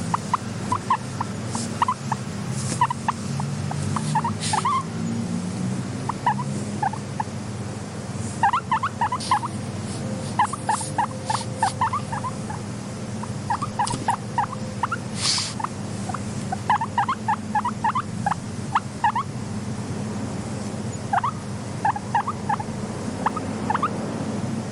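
Guinea pigs squeaking: short, rising squeaks in quick runs of several a second, with pauses between the runs. Underneath is a steady low hum, with a few sharp clicks.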